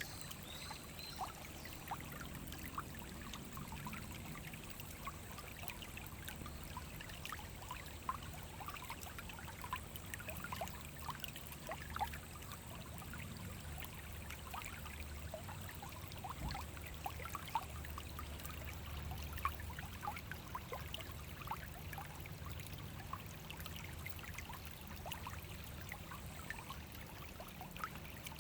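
Small forest brook flowing over stones: a steady low rush under constant bubbling and trickling.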